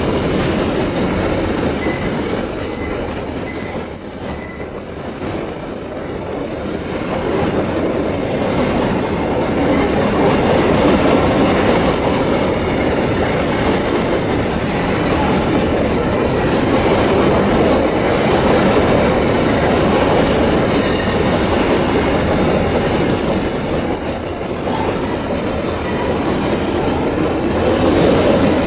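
Long train of steel coal hopper wagons rolling past on a curve: a steady rumble of wheels on rail, with faint high wheel squeals now and then.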